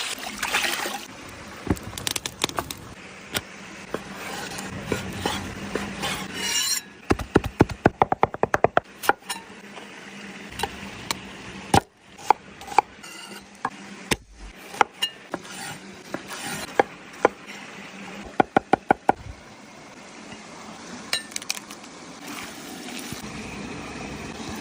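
Food-preparation sounds: scattered sharp taps and clinks of utensils, with two runs of quick even knocks, about six a second, a third of the way in and again past two thirds.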